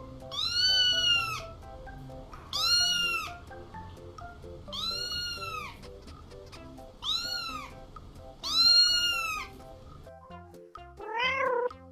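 A cat meowing five times, high arched rise-and-fall calls about two seconds apart, then a short rising meow near the end, over background music.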